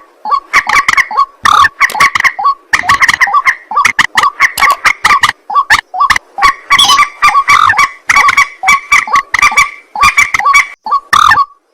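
Loud calls of white-breasted waterhen and common moorhen: long, fast series of repeated croaking notes, each series broken by brief pauses.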